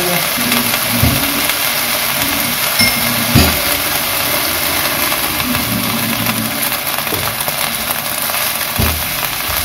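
Fern greens sizzling in a frying pan over a gas flame, a steady hiss, with a spatula knocking against the pan three times while stirring. A low hum comes and goes underneath.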